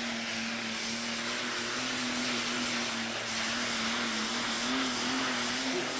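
Pulling vehicle's engine running at high, steady revs: a loud, even roar over a steady hum that wavers slightly.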